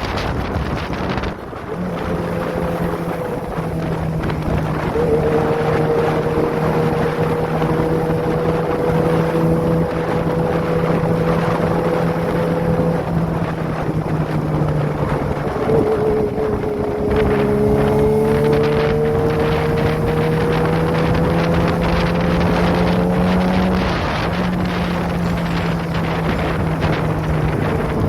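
Kawasaki ZX-25R's 250 cc inline-four running at steady cruising revs through an aftermarket Prospeed exhaust while being ridden, with wind noise on the microphone. The engine note steps in pitch a few times: about a second in, midway, and near the end.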